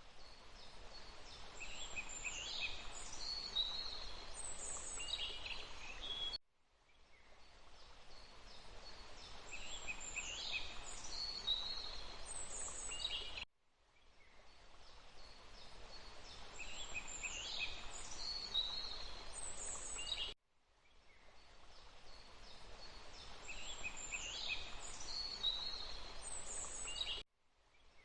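Looped forest ambience: a steady rushing noise bed with birds chirping high, quick calls, the identical phrase of calls repeating about every seven seconds. Each repeat begins with a brief dropout and a fade-in.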